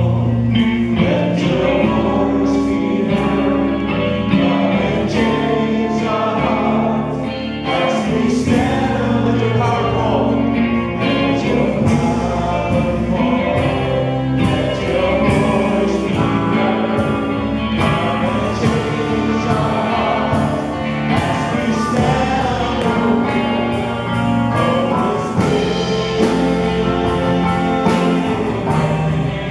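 Church worship music: several voices singing a worship song together over instrumental accompaniment.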